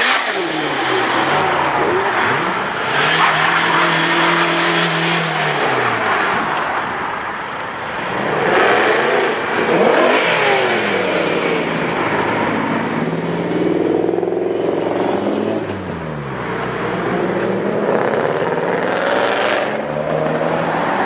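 Tuned car and supercar engines revving, their pitch climbing and dropping repeatedly, one loud burst after another.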